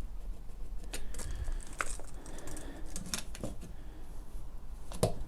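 Light, scattered clicks and taps of measuring and marking tools being handled on a workbench while marking out on timber, with a low steady hum underneath.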